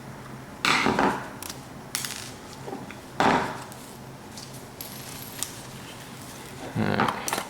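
Handling noise from a ceiling fan's switch housing being opened up: a few separate clunks and scrapes of metal and plastic parts.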